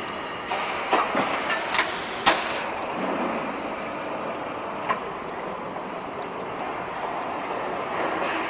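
Steady rumbling background noise with a cluster of sharp knocks and clacks between about one and two and a half seconds in, the last of them the loudest, and a single knock near five seconds.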